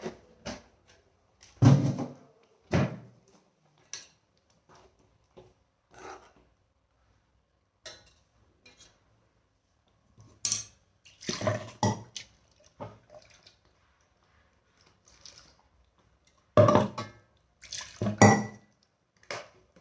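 Spoon knocking and scraping against a cooking pan while a thick chicken masala is stirred, in short clusters of clatter with quiet gaps between.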